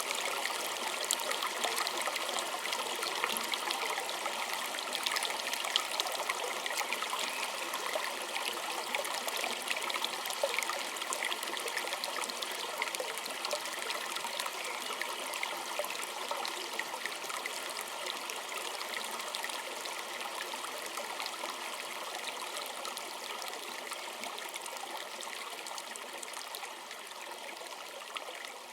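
A small stream trickling and splashing over stones, a steady fine babble of water that slowly grows quieter toward the end.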